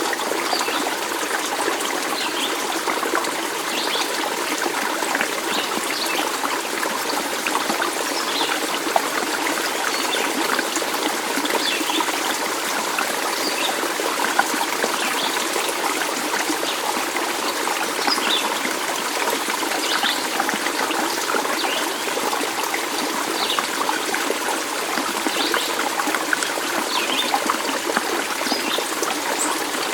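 Stream water trickling and running steadily, with short high flecks of sound scattered throughout.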